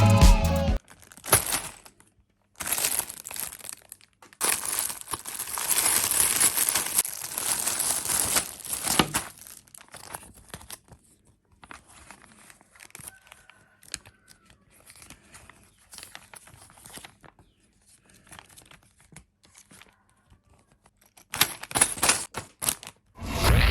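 Packaging of a toy building-block set being torn open and crinkled, in rustling stretches, then scattered light clicks and rustles, with a quicker run of clicks near the end.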